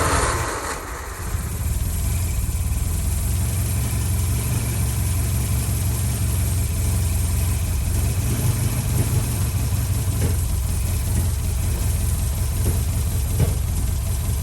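Classic Mini's BMC A-series four-cylinder engine, just brought back to life, catching and then running at a steady low idle.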